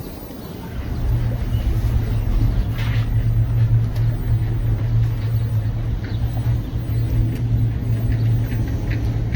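A boat's engine running with a steady low drone that swells in about a second in and then holds, over light wind and water noise.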